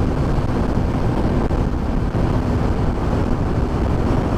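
Loud, steady wind rush buffeting the camera's microphone on a motorcycle at highway speed, with the steady engine note of a 2007 Honda CBR600RR faint underneath.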